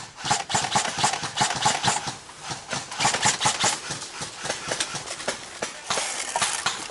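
Airsoft guns firing: a quick, irregular run of sharp clicking shots, several a second.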